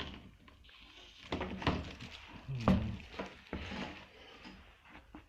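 Handling noises as motor parts and packaging are moved about: scattered knocks, clatter and scraping, with the loudest knock a little under three seconds in.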